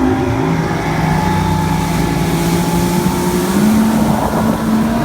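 Mercury 150 Black Max XR6 two-stroke V6 outboard running. Its pitch drops in the first half second, then climbs slowly over the next few seconds.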